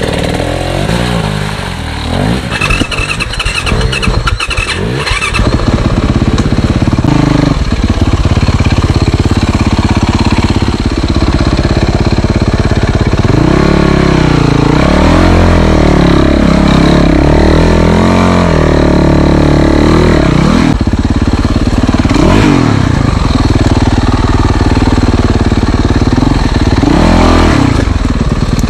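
Motorcycle engine running hard, its pitch repeatedly rising and falling as it is revved.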